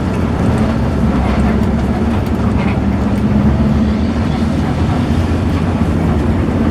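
Bus diesel engine running steadily with a low, even drone.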